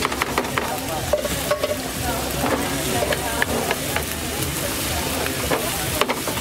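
Pad Thai (rice noodles, bean sprouts and egg) sizzling in a non-stick frying pan, stirred with a slotted spatula that clicks and scrapes against the pan many times.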